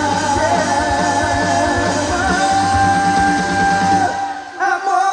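Live trot band playing with a steady bass beat while a sung note is held. About four seconds in, the bass and beat drop out briefly before the band comes back in.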